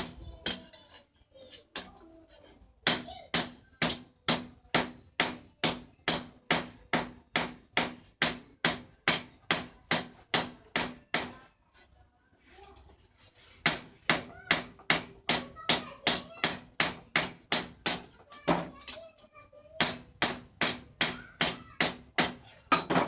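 Hammer blows on leaf-spring steel over an anvil as a golok blade is forged. Fast, even strikes come about three a second, each with a ringing note, in three runs broken by short pauses.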